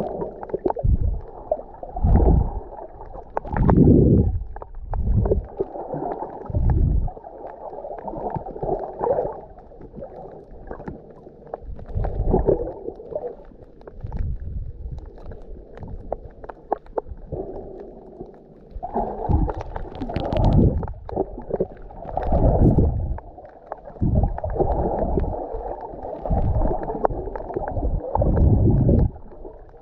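Muffled sloshing and gurgling of sea water, as heard by a camera in a waterproof housing under or at the surface. It swells in irregular surges every second or few seconds as the water moves past.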